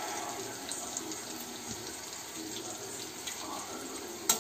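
Onion, tomato and curry leaves sizzling steadily in hot coconut oil in a steel kadai, with a sharp clack of the slotted spatula against the pan near the end.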